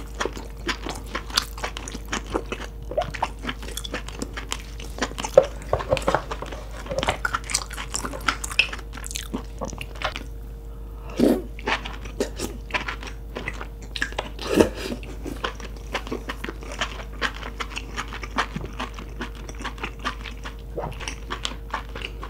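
Close-miked chewing of lobster meat: many quick mouth clicks and smacks as it is chewed, with a faint steady hum underneath.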